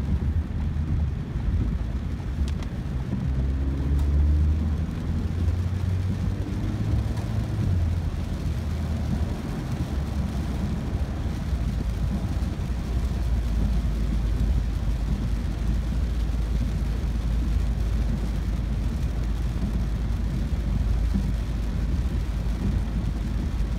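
Ford Focus driving in heavy rain, heard from inside the cabin: a steady low road and engine rumble under a hiss of rain and tyre spray. A few seconds in, the engine note rises briefly as the car picks up speed.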